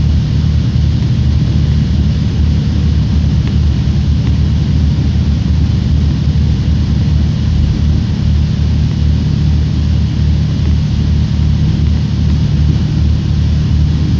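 Steady, loud running rumble of a moving train heard from inside the carriage: deep, fluttering low noise with a hiss above it.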